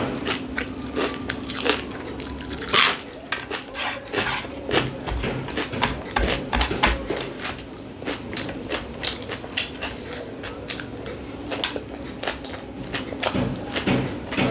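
Close-miked eating: many quick bites, chewing and mouth clicks with occasional clinks of dishes, over a steady low hum.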